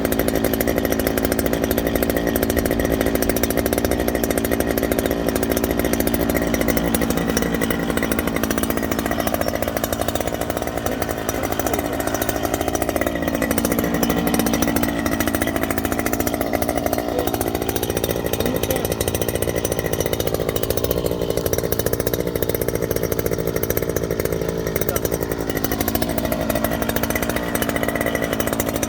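Gasoline-engine earth auger running steadily at high speed while drilling into the ground. Its engine pitch sags and recovers twice, as the bit bites into the soil and loads the engine.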